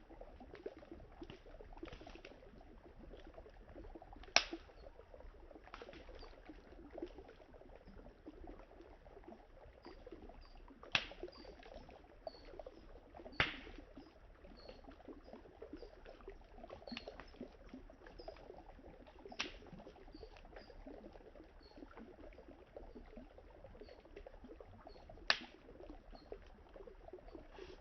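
Wood fire crackling, with a handful of sharp, loud pops and many faint ticks, over the steady trickling flow of a river.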